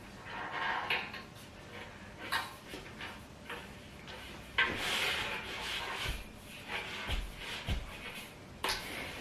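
Furniture parts being handled and fitted during flat-pack assembly: irregular scraping and rubbing with a few sharp knocks, one longer scrape about halfway through.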